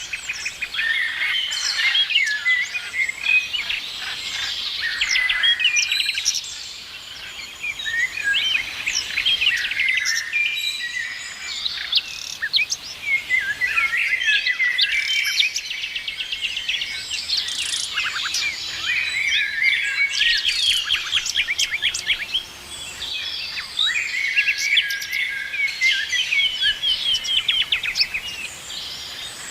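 Several songbirds singing and chirping at once, a dense chorus of quick trills and short rising and falling whistles, with a brief lull about seven seconds in and another near twenty-two seconds.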